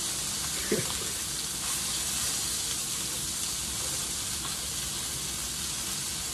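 Sausage patties sizzling steadily as they fry in a skillet. There is one brief knock about a second in.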